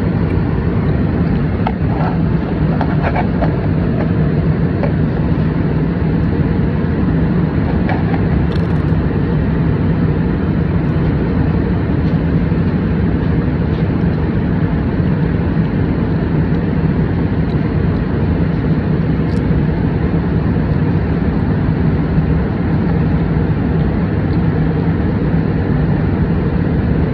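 Steady cabin noise of an airliner in flight: an even engine and air roar with a low steady hum.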